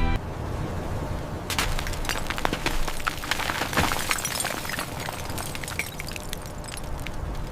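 A low rumble with dense, irregular crackling and snapping that starts about one and a half seconds in and thins out toward the end.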